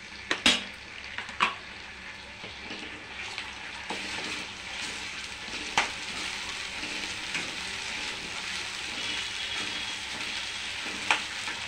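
Ginger-garlic paste sizzling as it fries in hot oil in a kadai while a steel ladle stirs it. There are a few sharp clinks of the ladle against the pan.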